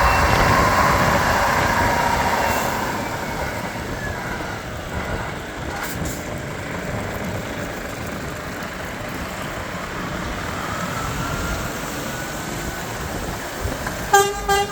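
Diesel engine of a 2018 Scania P410 8x4 hook loader truck running, louder for the first couple of seconds and then steady, with a faint rising whine towards the end. A brief beep sounds right at the end.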